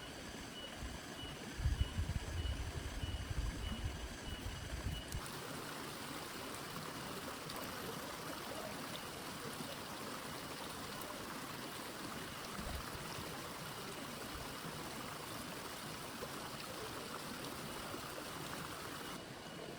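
Steady heavy rain falling, an even hiss of water. A low rumbling runs through the first few seconds. About five seconds in, the rain abruptly turns denser and brighter.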